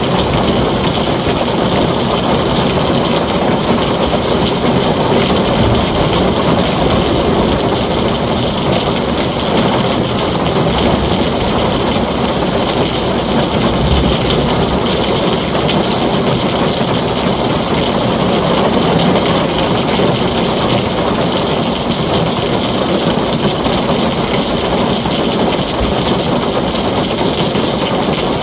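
Heavy rain falling steadily on a tin roof, a dense unbroken hiss with a low rumble underneath.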